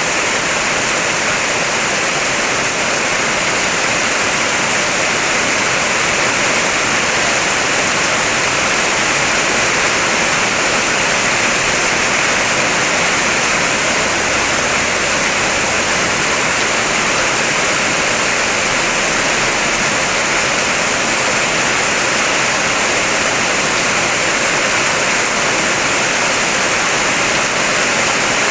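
Heavy rain falling on a car, heard from inside the cabin as a steady, even hiss with no single drops or thunder standing out.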